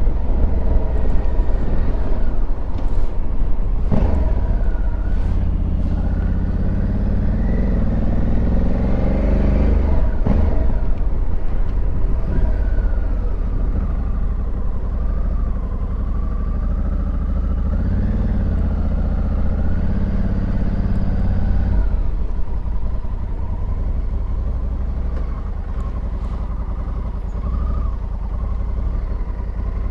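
Honda Africa Twin Adventure Sports' parallel-twin engine pulling the bike along on the road, heard from the rider's position over heavy low wind rumble. The engine pitch climbs under acceleration for several seconds about six to ten seconds in, then rises and falls more gently.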